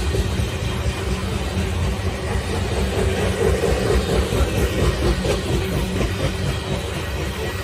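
Coal cars of a freight train rolling past: a steady rumble of steel wheels on the rails, with some clickety-clack.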